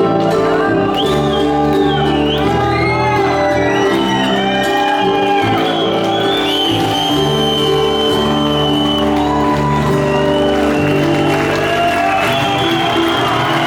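Live rock band playing loudly: sustained full chords with a high, gliding melody line over them.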